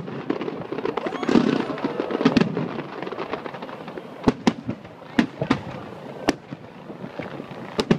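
Aerial fireworks shells bursting: a dense rapid crackle over the first few seconds, then a string of separate sharp bangs about half a second to a second apart.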